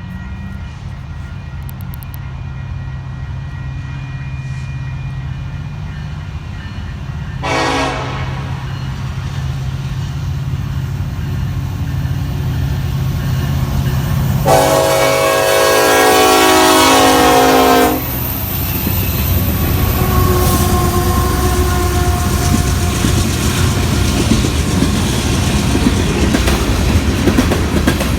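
Union Pacific diesel freight train approaching: the locomotive engine drone grows louder, the air horn sounds a brief blast about seven seconds in and a long blast at about the halfway point, then the train passes close by with loud rail noise and wheel clatter.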